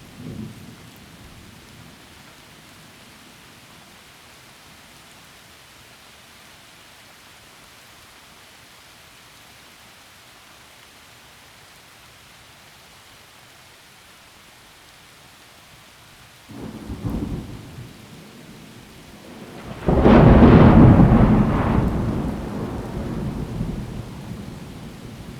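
Heavy rain falling steadily through forest trees. About two-thirds of the way in a low thunder rumble comes up, and a few seconds later a louder thunderclap follows, then rolls away slowly.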